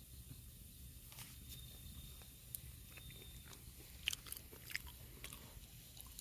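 Firewood burning in a fire pit, crackling with scattered sharp pops that come thicker from about a second in, the loudest pop about four seconds in; the wood is damp.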